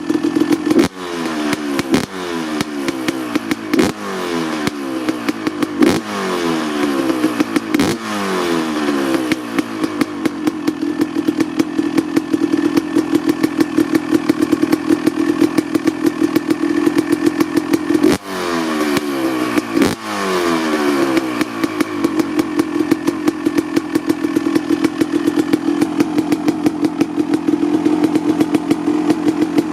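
Honda CR250R single-cylinder two-stroke engine warming up after a cold start: a fast, popping idle, with the throttle blipped about every two seconds through the first third and twice more past the middle, the revs dropping back to idle after each blip.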